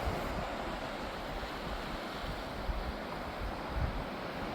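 Sea surf washing steadily on the shore, with wind buffeting the microphone in low rumbles.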